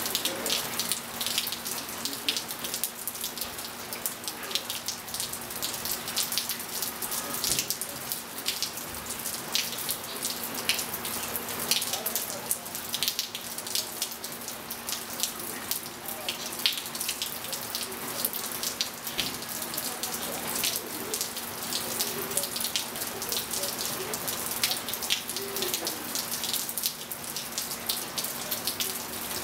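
Steady rain falling on a pool and wet patio tiles, with many close drops and drips tapping irregularly, over a steady hum.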